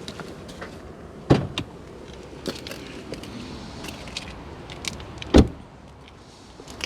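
Two solid thumps from the car's body, about four seconds apart, with light clicks and rattles between them, as the bonnet is released and opened.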